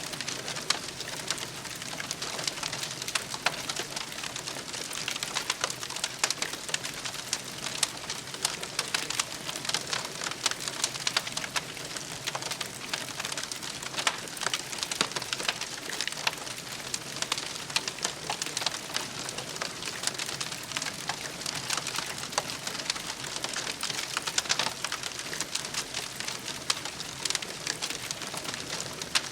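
Wood campfire crackling, with dense sharp snaps and occasional louder pops over a soft hiss.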